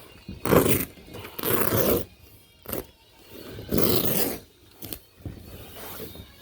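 Carpet being worked by hand during installation: four short scraping sounds, each about half a second, with a faint tick near the middle.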